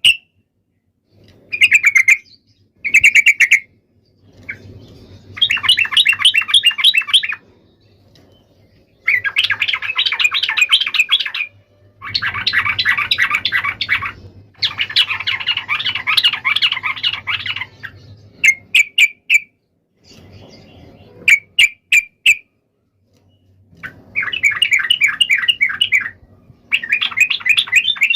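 Yellow-vented bulbuls chattering: rapid bubbling phrases of two to three seconds, repeated, with short sharp chirps between them, the excited fighting calls used to provoke other bulbuls into answering.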